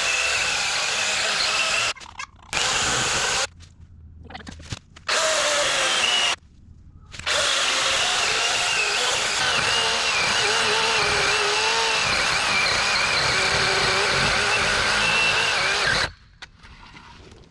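Dewalt electric chainsaw cutting into a tree trunk, making the felling notch, with a wavering motor whine. It runs in short spurts, stopping briefly three times in the first seven seconds, then runs steadily for about nine seconds before cutting off near the end.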